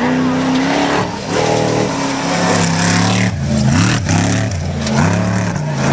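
Off-road race truck engine at high revs as it passes, the pitch climbing and dropping several times with throttle and gear changes.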